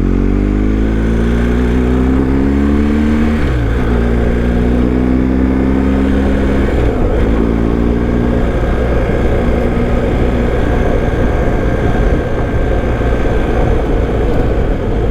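BMW GS Adventure boxer-twin motorcycle engine pulling through the gears. Its pitch climbs for about three and a half seconds, drops at a gear change, climbs again, drops at a second shift about seven seconds in, then runs fairly steady, over a constant rush of wind noise.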